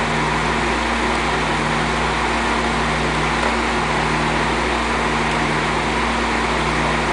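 DeLorean DMC-12's PRV V6 engine idling steadily with the electric radiator cooling fans running, as the newly fitted radiator and fans are run up to temperature.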